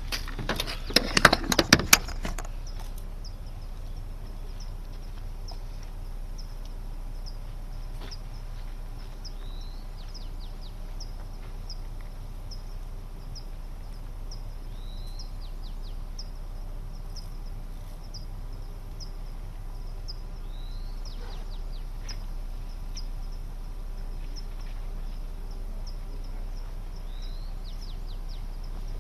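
Loud crackling rustle for about the first two seconds, then quiet outdoor ambience: a bird repeats a short high chirp about once a second, and about every six seconds gives a slurred falling call followed by a quick run of notes, over a low steady hum.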